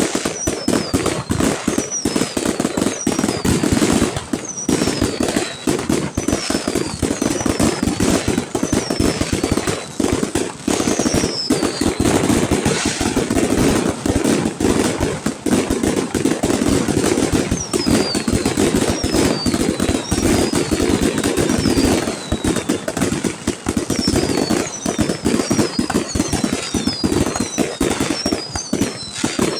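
Fireworks display: a dense, continuous barrage of bangs and crackling, mixed with many short falling whistles, several in quick succession near the end.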